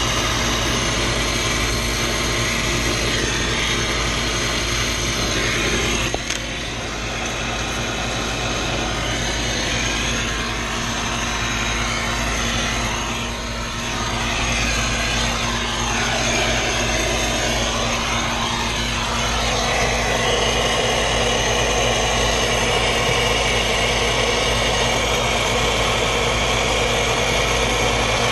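A motor-driven machine running steadily with a constant hum, a sharp click about six seconds in, and a change in its sound about twenty seconds in.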